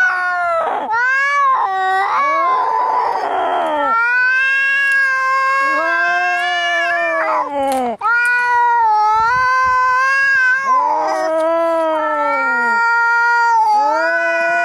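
Angry domestic cats yowling in long, drawn-out caterwauls whose pitch wavers up and down, with a hiss about two to four seconds in: fighting cat sounds.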